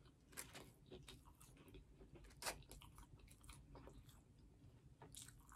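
Faint chewing of a mouthful of fried chicken sandwich and fries: scattered soft mouth clicks and light crunches, the loudest about halfway through.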